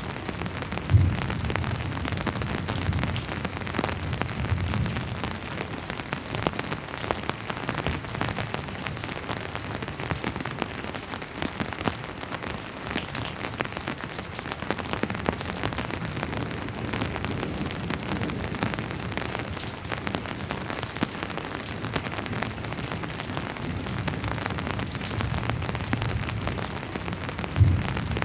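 Steady rain falling, a dense even patter with individual drops ticking. A low rumble comes and goes, with a short louder thump about a second in and again near the end.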